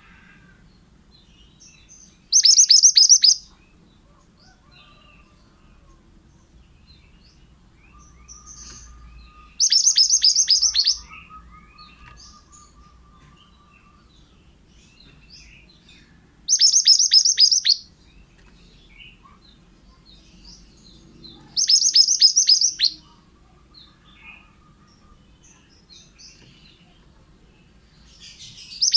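A male pied bushchat (burung mantenan) singing: short bursts of rapid, sharp, high notes, each lasting about a second and coming every six or seven seconds, four of them with a fifth starting at the very end. Faint chirps and a soft, low, drawn-out whistle fill the gaps.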